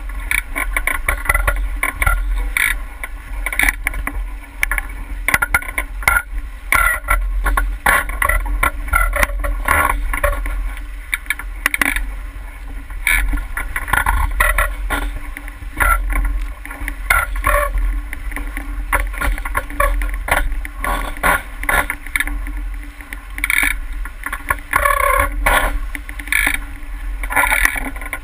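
A boat moving through the water, with water splashing and slapping against the hull in an irregular run of short splashes over a steady low rumble.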